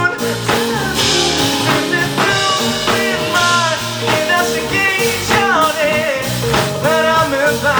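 A rock band playing a song, with a sung melody over guitar, bass and drums.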